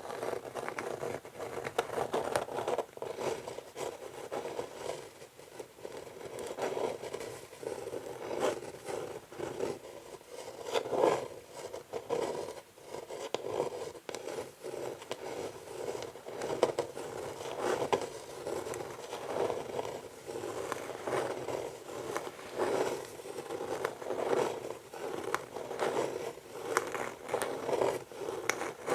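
Natural fingernails scratching across an old wooden chess board: a continuous run of slow, rough scrapes, one stroke after another.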